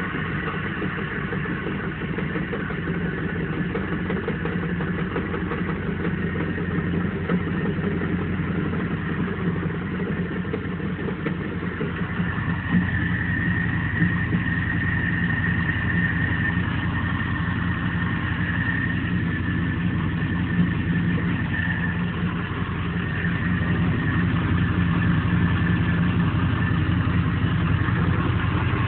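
Starboard inboard engine of a 2004 34-foot Silverton boat idling steadily, with a high whine that comes and goes through the middle. The running gets slightly louder near the end.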